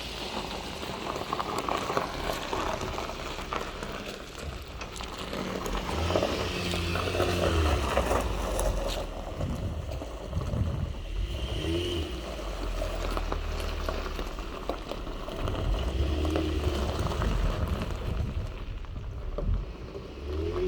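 A van runs and drives with a low, uneven rumble of engine and road noise, swelling and easing as it goes.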